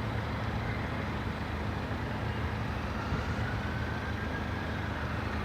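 Road traffic: a vehicle engine running steadily, with a faint rising whine in the second half as a vehicle pulls away.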